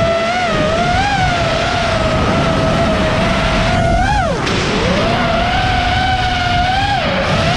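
FPV quadcopter's brushless motors and propellers whining, the pitch wavering with throttle. About four seconds in the pitch drops sharply as the throttle is chopped, then climbs back up, over a steady rush of air.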